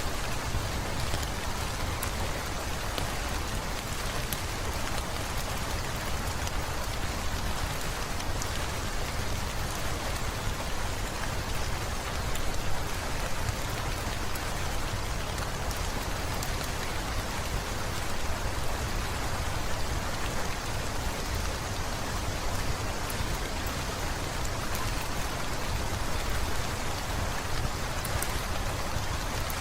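Heavy rain falling steadily, with scattered faint crackles from a fireplace.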